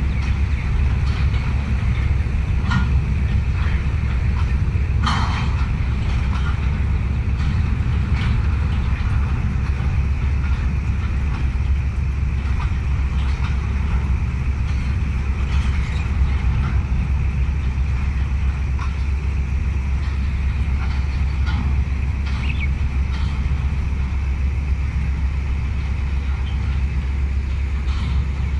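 GE GEU-40 (ES43ACi) diesel-electric locomotive's 12-cylinder GEVO12 engine running with a steady deep rumble, with scattered light clicks over it.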